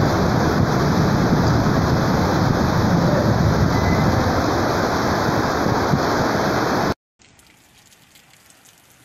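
Heavy rain pouring onto pavement and a flooded street, a loud steady hiss. It cuts off abruptly about seven seconds in, leaving a much quieter background.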